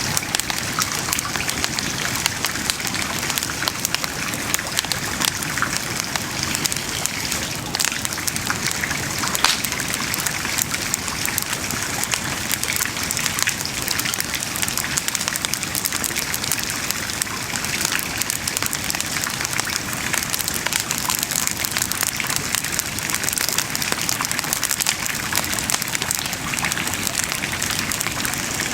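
Wood bonfire burning with a steady dense crackle of many small pops and a sharper pop about nine and a half seconds in.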